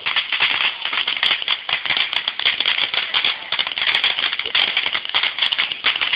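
Ground fireworks crackling: a dense, rapid stream of small pops that starts abruptly and keeps going.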